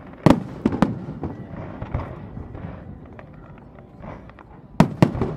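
Aerial fireworks shells bursting. A cluster of three loud bangs comes just after the start, then scattered smaller pops and crackles, and another pair of sharp bangs near the end.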